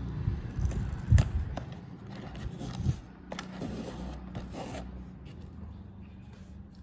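Handling noise as a small plastic robot vacuum and its adhesive sponge pads are worked by hand: irregular knocks and a few sharp clicks, the loudest about a second in, with rubbing and rustling that fade toward the end.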